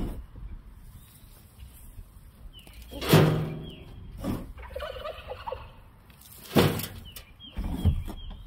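Turkey gobbling several times, loudest about three seconds in and again near the end.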